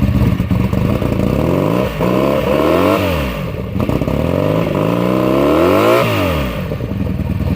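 1982 Honda Magna's V4 engine, breathing through new Emgo mufflers, revved twice from idle: a short blip about two seconds in, then a longer climb that drops back to idle near the end. The owner says it bogs down when given gas because the carburettors still need work.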